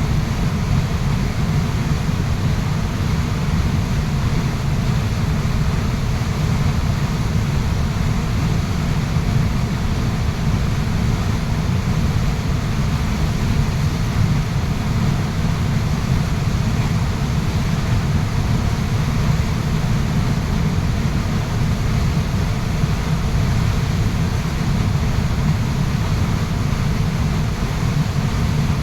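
Waterfall rushing in a steady, unbroken wash of water noise, heaviest in a deep low rumble.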